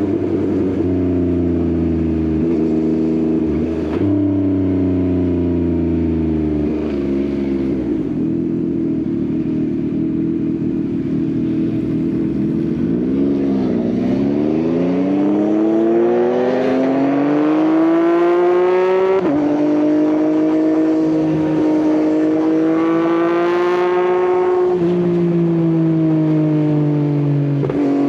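Yamaha XSR900's inline-triple engine through an Akrapovič exhaust, riding at a steady pace. About halfway through the revs drop as it slows, then it pulls away with the pitch climbing. Near the end the pitch falls sharply and climbs again, a gear change under acceleration.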